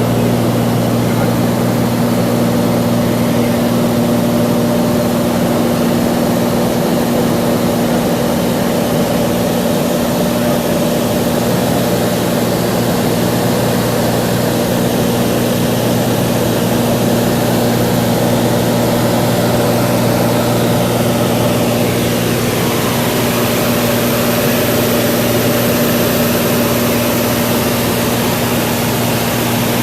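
Cessna 182's piston engine and propeller droning steadily in flight, an even low hum that holds at one pitch throughout.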